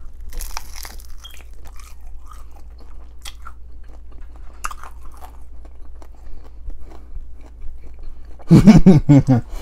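A breaded chicken wing being bitten and chewed close to the microphone: a loud crunch in the first second, then scattered smaller crunches and chewing. A man starts talking near the end.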